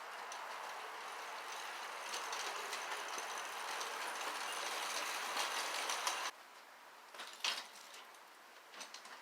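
A steady mechanical rattling noise that cuts off suddenly about six seconds in, followed by a few light knocks.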